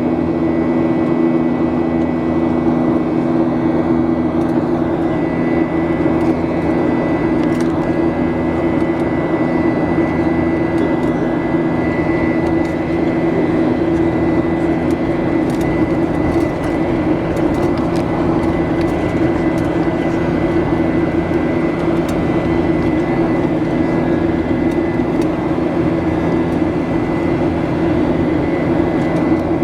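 Boeing 737 jet engines running at high thrust, heard inside the passenger cabin as a steady loud drone with a thin high whine held throughout.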